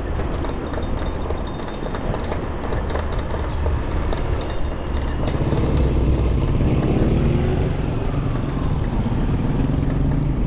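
Steady wind and street-traffic noise while riding a bicycle through city traffic. About halfway through, a nearby motor vehicle's engine can be heard running alongside.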